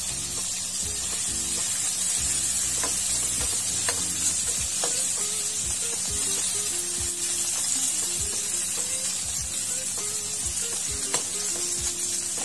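Pork and shrimp sizzling in hot oil in a metal wok, with a few sharp clinks and scrapes of a metal spatula against the pan as the shrimp are scooped out. Background music plays underneath.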